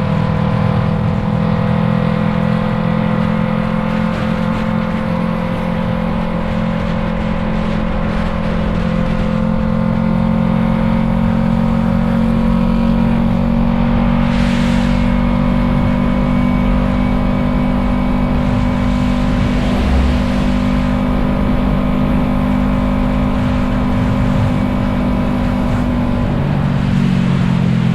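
Yamaha MT-03's parallel-twin engine through an Arashi aftermarket exhaust, running at steady cruising revs, then easing off near the end as the revs fall.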